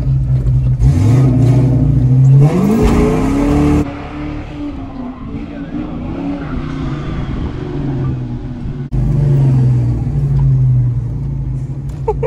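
Ford Mustang engine revving up, rising in pitch from about a second in, then running steadily. The sound breaks off abruptly twice.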